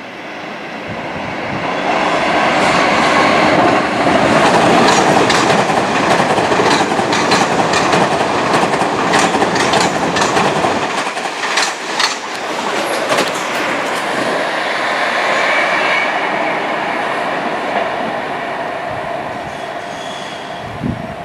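A passenger train running past below. It builds up over the first few seconds and stays loud through the middle, where the wheels click sharply over rail joints and points. It then fades gradually.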